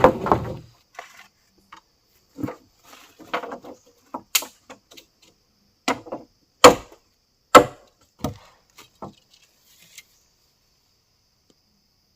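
Wood being chopped or struck: a series of sharp, irregular wooden blows, roughly one a second, that thin out and stop about ten seconds in. A faint steady high insect buzz runs behind them.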